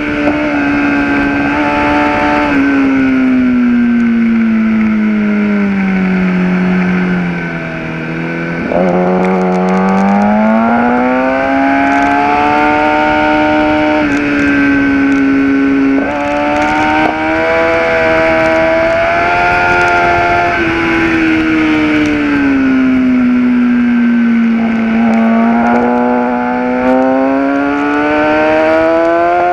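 Kawasaki ZX-10R's inline-four engine heard onboard at track speed. Its pitch sinks for several seconds and then climbs again, twice, with a few sudden pitch steps at gear changes. There is a brief drop in volume about eight seconds in as the throttle closes, and a steady wind rush runs underneath.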